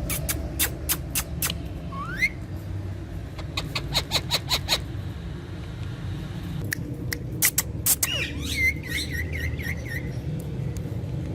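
Pet parrot making runs of sharp clicks, a short rising whistle, and near the end a warbling whistled call, over a steady low hum.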